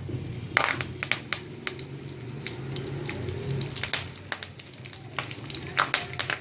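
Curry leaves frying in hot oil in a kadhai with chana dal for an upma tempering: a steady sizzle with many sharp, irregular pops and crackles.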